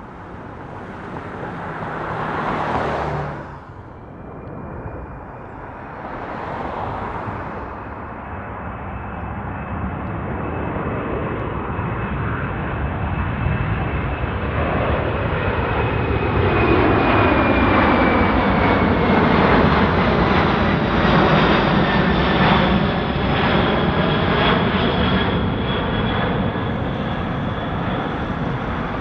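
Jet aircraft approaching and passing overhead. A steady high engine whine drops in pitch as it goes by, and the roar builds to its loudest past the middle. Two brief whooshes come before it, a few seconds in.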